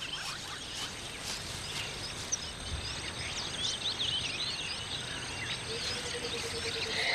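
Outdoor savanna ambience: a steady hiss with many short chirping calls, probably birds, and a constant thin high-pitched tone. A low steady tone comes in near the end.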